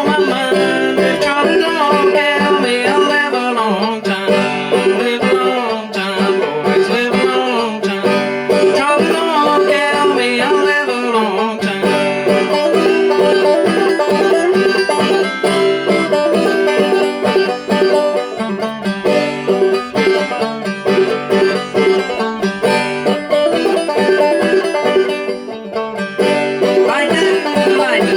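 Five-string banjo played clawhammer style: a steady, continuous old-time tune of quickly plucked notes.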